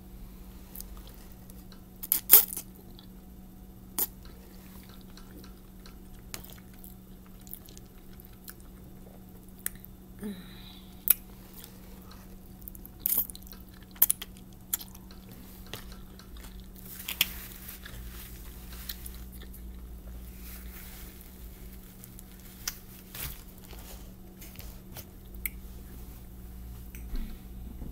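Close-miked chewing of spaghetti, with sharp clicks and scrapes of a metal fork against a clear plastic bowl, over a steady low hum.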